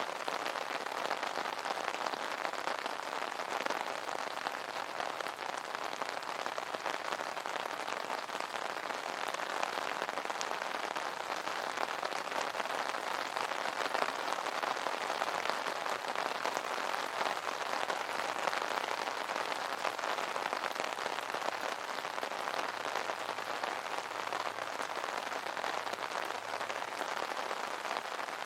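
Steady rain pattering on an umbrella's fabric canopy, a dense even patter of drops.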